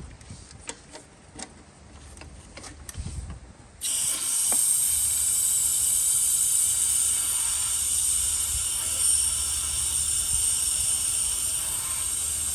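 Aerosol can of throttle body cleaner spraying into a throttle body in one long, steady hiss, which starts suddenly about four seconds in and lasts about nine seconds. Before it there are a few light clicks.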